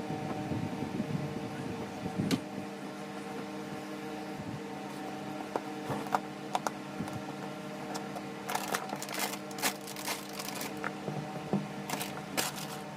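A table fan hums steadily while metal alternator parts click, tap and knock as they are handled and fitted. The clicks come in a busy cluster about two-thirds of the way through and again near the end.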